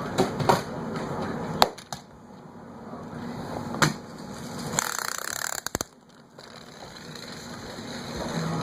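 Small pull-back toy cars: the wound spring motor whirring as a car rolls off, with a few sharp clacks as the cars knock into things and a quick rattle of clicks near the middle.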